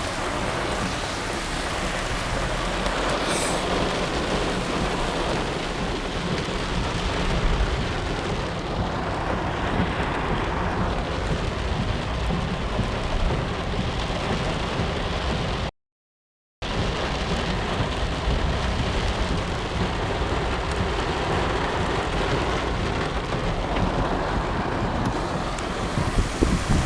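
Heavy rain pouring steadily, with a low rumble underneath. The sound drops out completely for about a second around the middle.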